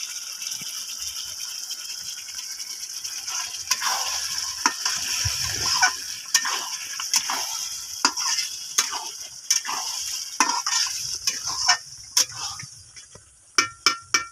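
Chicken sizzling with spices in a metal pan while a spatula stirs it: a steady sizzle, with repeated clacks and scrapes of the spatula against the pan from about four seconds in. The meat is being fried down to cook off its water. The sizzle drops away near the end.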